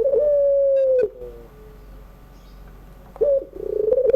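Puter pelung, a long-cooing domestic dove, cooing. A rolling warble leads into one long, drawn-out coo that sags in pitch at its end. A second call starts with a short note and a warble near the end.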